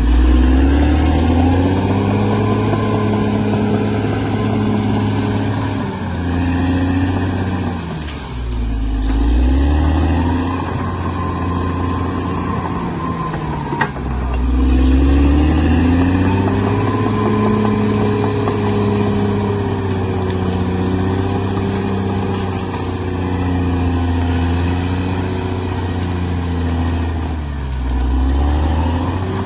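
Bulldozer's diesel engine working under load, its pitch sagging and climbing back three times as it lugs and recovers, with a single sharp click about halfway through.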